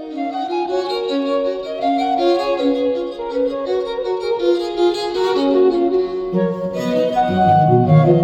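Classical music led by violin, playing through a car audio system whose tweeters and high-mid drivers sit in the footwell kick panels. Lower notes come in about six seconds in.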